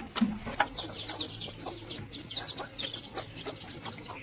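Birds chirping in a quick run of short, high calls, with a couple of sharp knocks in the first second.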